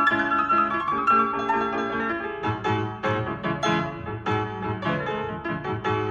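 Solo piano music with quick, bouncy notes in a silent-film comedy style, a lower bass part coming in about two and a half seconds in.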